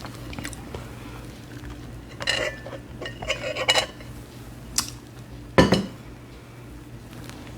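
Light clinking and handling noises of small objects, in two short clusters, then a single dull thump about five and a half seconds in.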